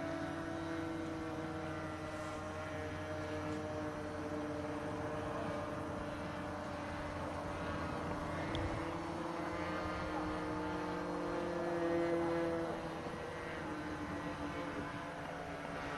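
Radio-controlled model airplane's engine and propeller droning in flight. The pitch wavers as it manoeuvres, rising and swelling louder about three-quarters of the way through as it passes closer, then falling away.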